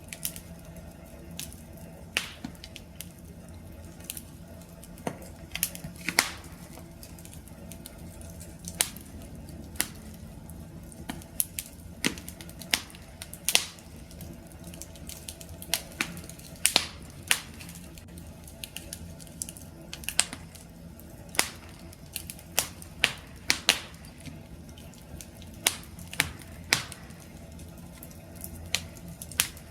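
Wood fire burning with a low steady rumble and sharp, irregular crackles and pops of burning wood, a few each second.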